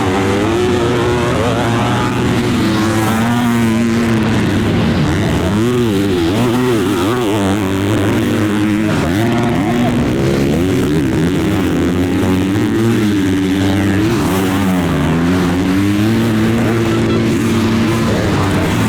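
Several motocross bikes racing together, their engines revving up and down over and over as the riders work the throttle and shift, with the revs of different bikes overlapping.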